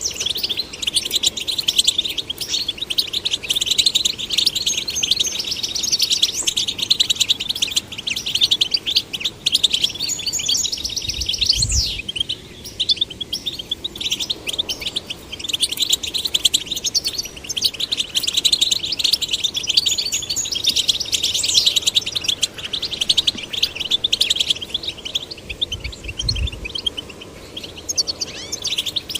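European goldfinches singing a continuous, rapid twittering song of quick chirps and trills. Two brief low thumps come in, about a third of the way through and near the end.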